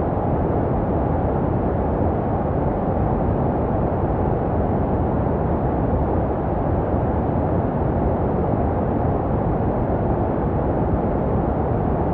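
Continuous white noise for soothing a baby to sleep: a steady, deep, muffled hiss with most of its weight low and little top end, unchanging throughout. It is made to resemble the sounds a baby hears in the womb.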